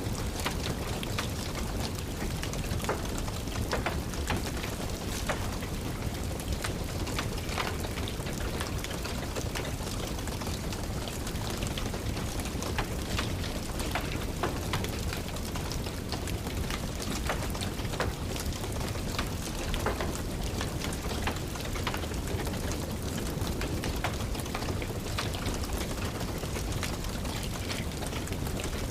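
Steady rain falling and tapping, mixed with the irregular snaps and crackles of a wood fire burning in a fireplace.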